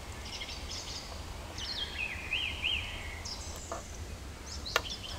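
A songbird singing: a series of short, high whistled phrases with quick rising and falling notes, over a steady low background rumble. A single sharp click comes near the end.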